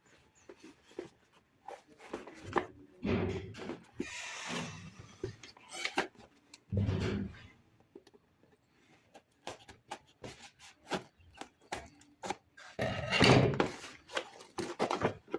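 Tools and packaging of a soldering iron kit being handled: a string of clicks, taps and knocks with rustling, loudest about thirteen seconds in.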